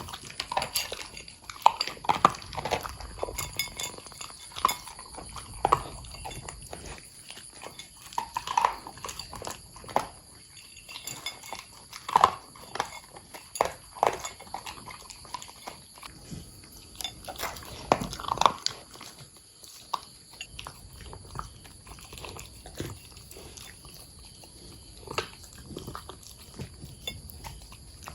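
Corgis eating dry kibble topped with freeze-dried food: irregular crunching and chewing, with sharp crunches every second or so.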